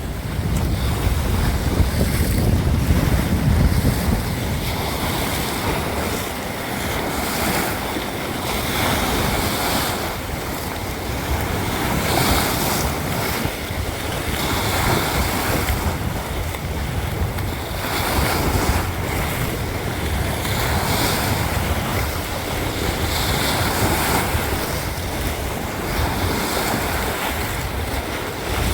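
Sea waves washing in, swelling and easing every few seconds, with wind buffeting the microphone in a low rumble.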